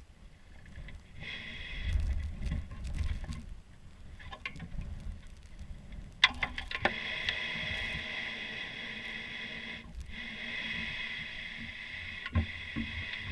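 Rumbling wind and movement noise on a GoPro action camera's microphone, turning into a steady high hiss from about six seconds in.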